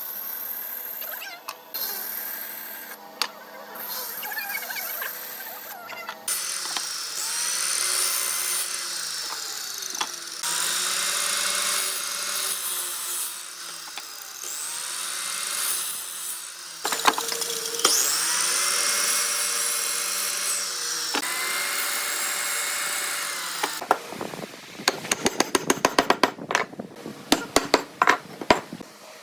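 Power tool working wood in repeated passes a few seconds each, its pitch sagging and recovering with each pass. Near the end it gives way to a quick series of sharp taps.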